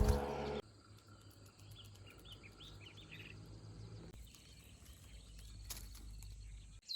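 Quiet outdoor ambience with a faint steady insect hum, and a quick run of about half a dozen short bird chirps two to three seconds in. A louder burst of noise cuts off just over half a second in.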